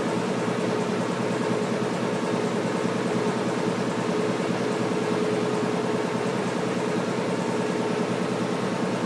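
Washing machine running with a steady mechanical hum and one held, even tone over it, the noise the owner is recording as a problem.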